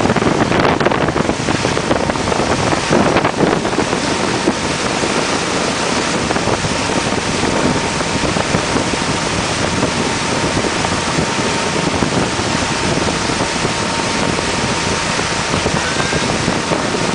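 Wind blowing across the microphone on a moving boat, with water noise and a thin, steady hum underneath.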